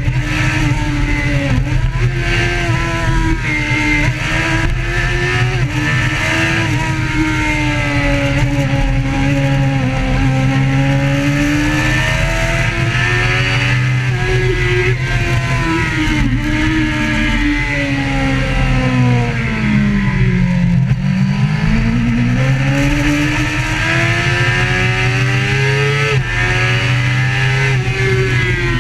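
Motorcycle engine running hard through traffic, its pitch rising and falling as it speeds up and slows down. The pitch drops to its lowest about twenty seconds in, then climbs again.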